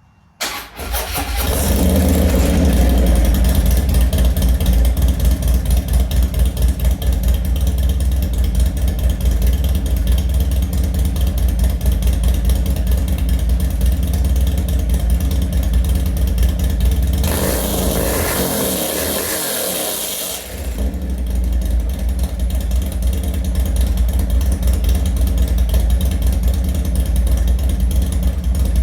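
Harley-Davidson Twin Cam 103 V-twin engine fired up through a D&D 2-into-1 Fat Cat exhaust, catching about half a second in and settling into a loping, pulsing idle. Its note changes briefly about two-thirds of the way through, the low rumble fading under a hiss, before the idle picks up again.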